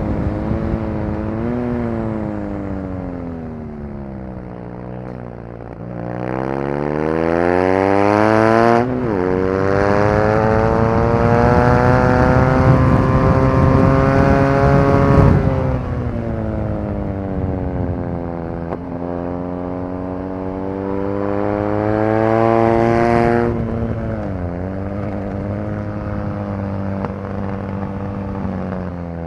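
BMW R nineT Racer's air/oil-cooled 1170 cc boxer twin, heard onboard at racetrack pace. The engine first slows off the throttle, then pulls hard, with a quick upshift about nine seconds in. It keeps climbing until the throttle closes around the middle, winds down, and accelerates again before backing off near the end.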